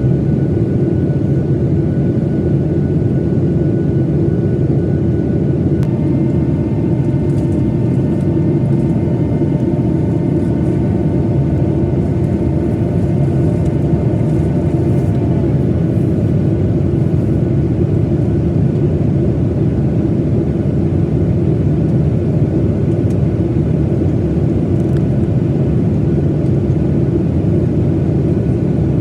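Boeing 737-900ER cabin noise in flight: a steady, loud roar of the jet engines and the airflow. From about a quarter of the way in to about halfway through, a faint set of steady whining tones sits over the roar.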